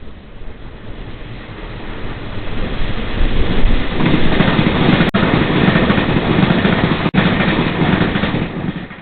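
Passenger train running through the station without stopping: the rumble and rail noise build, stay loud for several seconds, then fall away near the end. The sound cuts out for an instant twice.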